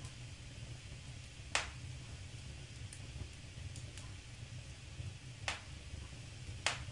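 Wood fire crackling in a fireplace: a low steady rumble of burning with three sharp pops, about one and a half, five and a half and nearly seven seconds in, and a few fainter ticks between them.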